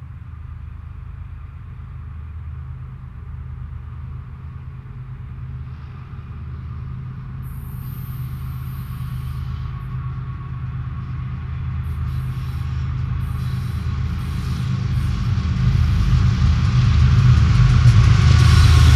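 BNSF diesel locomotives at the head of a coal train approaching and passing close by, their low engine rumble growing steadily louder, with wheel-on-rail noise building near the end.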